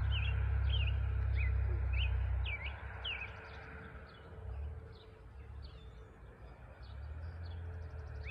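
Songbirds chirping: short, quick notes sweeping down in pitch, repeated several times a second. A low rumble sits under them for the first two and a half seconds and comes back near the end.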